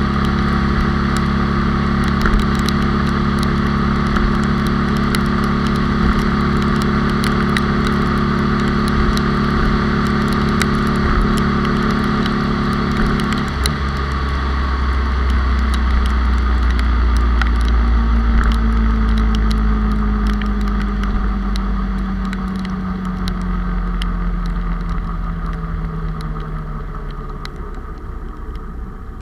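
Onboard sound of a 97cc Honda Cub's single-cylinder four-stroke engine under way, with wind noise rushing past. The engine note holds steady, changes abruptly about halfway through, then falls slowly in pitch and gets quieter toward the end as the bike slows.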